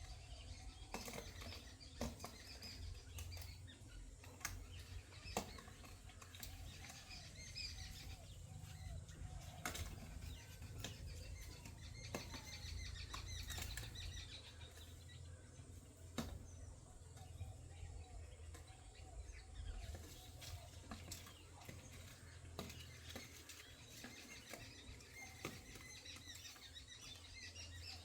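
Birds flapping their wings now and then, with sharp taps scattered through and faint chirps. A steady low hum runs underneath.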